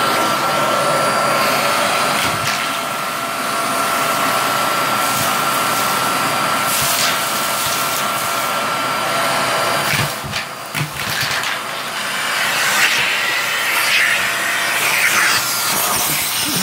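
Vacuum cleaner running over shag carpet with a steady whine; about ten seconds in, the whine breaks off briefly and the sound turns uneven.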